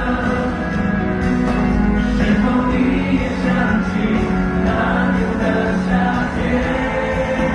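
Live pop music from a concert: a band playing, with several voices singing together.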